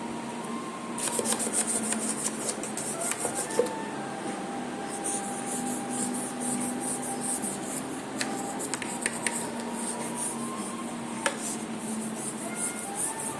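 Small brush scrubbing the inside of a fridge with detergent water in quick back-and-forth strokes, with a short pause about three and a half seconds in.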